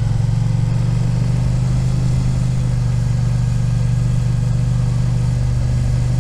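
Suzuki SV650's V-twin engine running at steady, low revs as the motorcycle circles at low speed, its note holding constant pitch throughout.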